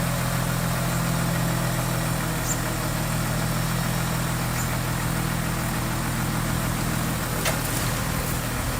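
Diesel engine of heavy construction equipment running steadily at idle, with a single sharp click near the end.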